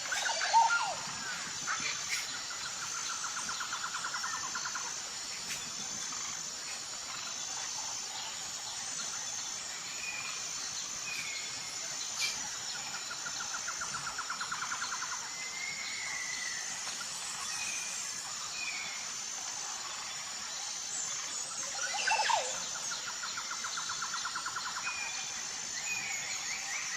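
Tropical forest ambience: a steady high pulsing insect drone under scattered bird calls, short whistled notes and two sharp falling calls, one just after the start and one about 22 seconds in. A rapid mid-pitched trill comes three times, roughly every ten seconds.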